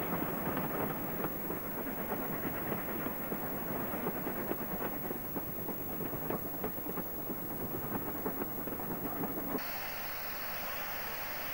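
Running noise of a preserved railway passenger coach heard from its window: a steady rumble with irregular clicks and clatter of the wheels on the rails. About ten seconds in, it cuts off abruptly to a steady hiss.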